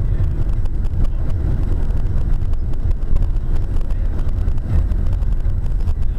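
Low, fluctuating rumble of road and wind noise from a moving car, the wind buffeting the dashcam's microphone.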